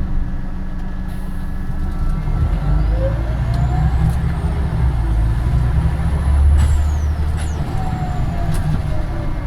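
Scania Omnidekka double-decker bus under way, heard from on board: a deep engine rumble with a thin transmission whine that rises in pitch about two to four seconds in, then falls away over the last few seconds.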